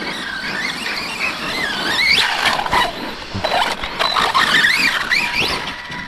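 Electric RC monster truck's brushless motor whining, its pitch rising and falling quickly as the throttle is blipped and released.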